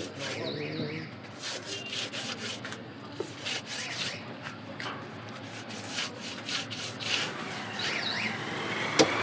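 Fish being scaled and cut on a wooden block: repeated scraping, rasping strokes, then three sharp chops near the end.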